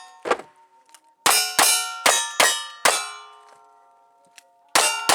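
Gunshots at steel targets in cowboy action shooting, each shot landing with a metallic clang, and the struck plates ringing on afterwards. One shot comes about a quarter second in, then five in quick succession about three a second, then a pause while the plates ring, and two more shots near the end.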